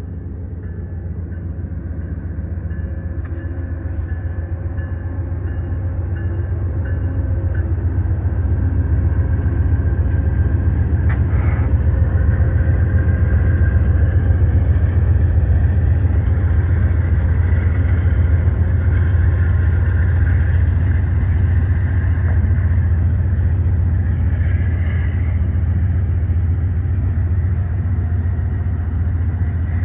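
A train rumbling past with a deep, steady engine drone. The rumble builds over the first half and then holds.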